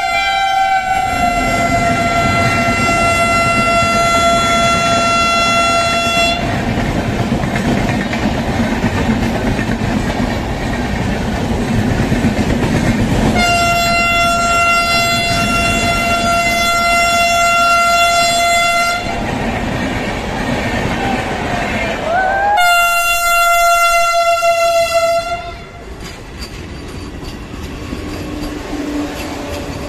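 Three long, steady train horn blasts, each a single held tone. Through the first half a passenger train runs past on the near track with a loud rolling rumble. Near the end the electric Vande Bharat trainset rolls by close and more quietly.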